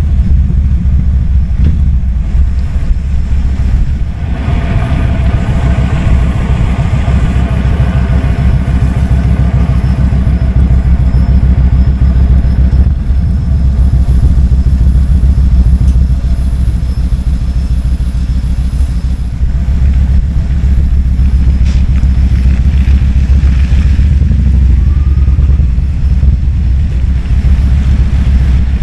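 Kawasaki Vulcan 2000's big V-twin engine running steadily while riding, with a deep pulsing exhaust note and wind noise on the microphone.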